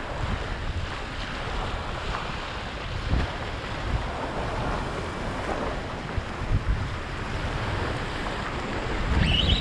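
Wind buffeting the microphone over the steady wash of surf on the beach, in uneven gusts.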